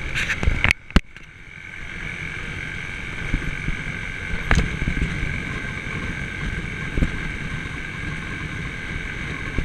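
Yamaha YBR125's single-cylinder four-stroke engine running, with a few knocks, louder than the engine, scattered through it. The sound drops away sharply about a second in, then builds back up and stays steady.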